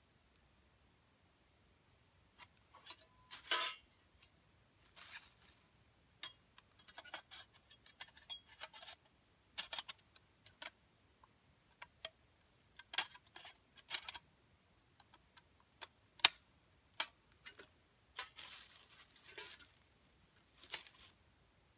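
Metal camping gear being handled: scattered light clinks and knocks, interspersed with short rustles, the loudest knock a little over three seconds in.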